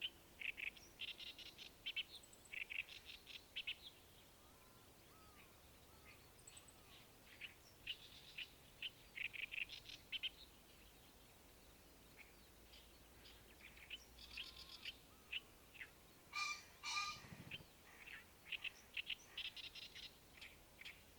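Wild birds chirping in quick, repeated bursts of short high notes, with one louder, fuller call about three quarters of the way through.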